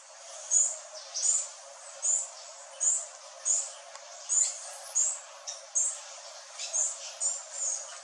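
A bird calling in short, high chirps, about one and a half a second, over a steady background hiss.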